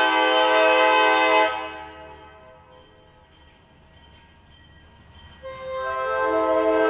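Nathan K5LA five-chime air horn on an ALCO S1 switcher locomotive blowing: a long blast cuts off about a second and a half in and dies away, and a second blast starts about five and a half seconds in, its notes coming in one after another before the full chord sounds.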